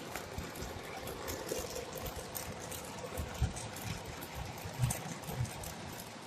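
Brazing torch flame hissing steadily while joints on the fridge's refrigerant line are brazed, with a few soft knocks of handling.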